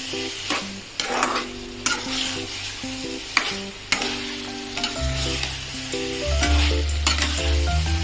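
Marinated yogurt chicken sizzling in hot spiced masala in a pan while it is stirred, the spoon scraping and knocking against the pan every second or so.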